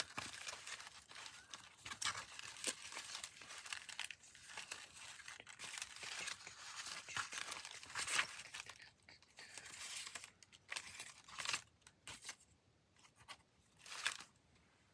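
Paper scraps and cards rustling and crinkling as they are handled and sorted through, busy at first and then more scattered, with a few short rustles near the end.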